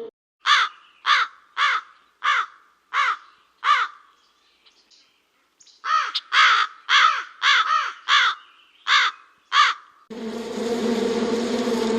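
A crow cawing: six harsh caws about half a second apart, a pause of about two seconds, then another run of about eight caws. About ten seconds in, a steady bee buzz takes over.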